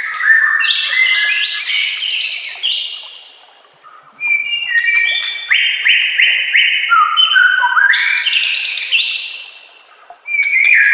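White-rumped shama (murai batu) singing long, rapid phrases of repeated whistled and chattering notes that step up and down in pitch. The song pauses briefly about three and a half seconds in and again near the end.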